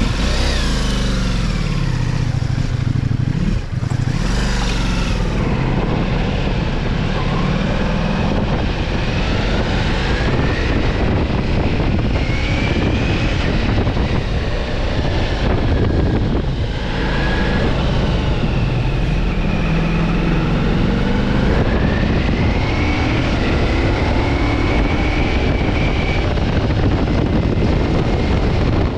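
Ducati Multistrada V4 S's V4 engine running as the bike rides off. Its pitch rises and falls several times as it accelerates and changes gear, over steady wind and road rush on the helmet camera's microphone.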